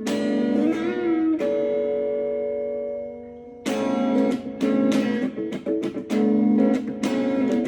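Guitar music: plucked notes with a wavering, vibrato-bent note about a second in, then a chord left to ring and fade for about two seconds before the picking starts again.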